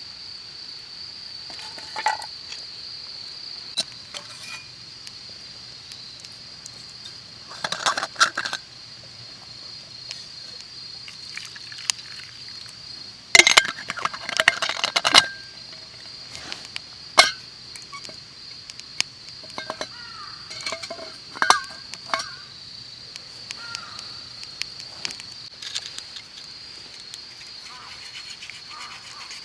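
Steady high-pitched chirring of insects, with scattered clinks and knocks of camp gear being handled, in clusters about a third and half-way through.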